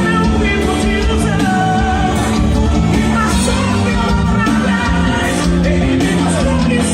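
A live band playing gospel music with singing.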